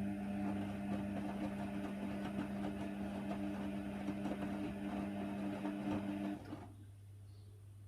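Hoover Nextra washer dryer's motor turning the drum with a steady whine, stopping about six and a half seconds in as the drum pauses; a low hum carries on after.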